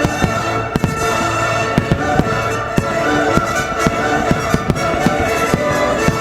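Firework shells bursting in a rapid, irregular string of sharp bangs, a dozen or more, over orchestral Christmas music with strings from the show's loudspeakers.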